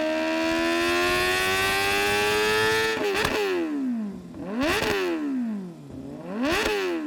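Kawasaki Ninja ZX-10R inline-four running through an SC-Project racing de-cat exhaust: the revs climb slowly, then the throttle shuts about three seconds in and the revs fall. Two sharp throttle blips follow, each rising quickly and falling away.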